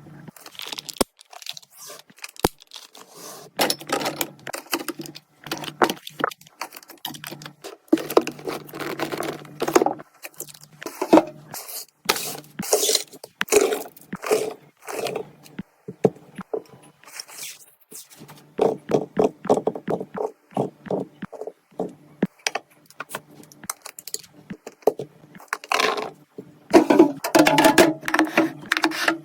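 Food packaging being handled: plastic rustling and crinkling with many small clicks and knocks of containers, in an irregular run of short bursts.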